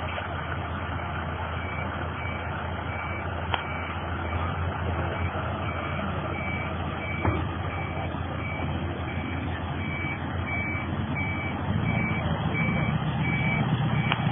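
Truck reversing alarm beeping at a steady rate, a little under two beeps a second, starting about two seconds in, over the low hum of the running truck engine. The engine gets louder near the end.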